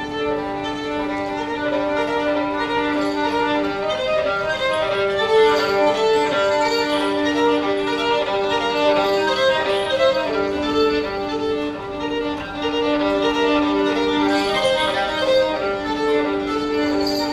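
Violin playing a quick, rhythmic melody over a held low note that sounds nearly throughout.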